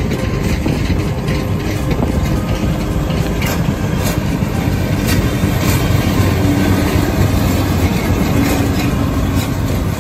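Diesel-hauled passenger train rolling past at close range. The coaches' wheels rumble and click over the rail joints, and from about six seconds in a diesel switcher locomotive's engine grows louder as it passes.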